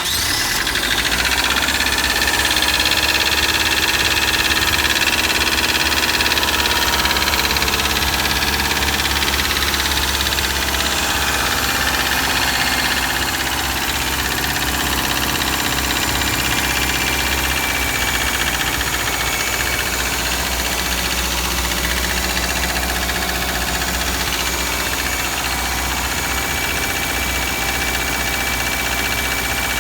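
Subaru EJ201 2.0-litre flat-four engine idling just after a cold start at −3 °C, with a knock in its running whose cause has not yet been found. The idle eases slightly about halfway through.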